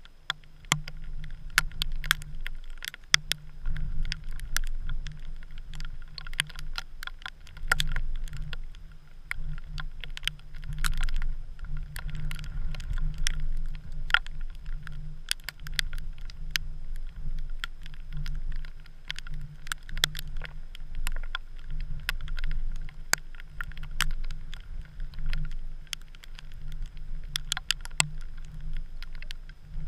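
Wind rumbling on a GoPro in a snow storm, with many irregular sharp ticks and clicks throughout.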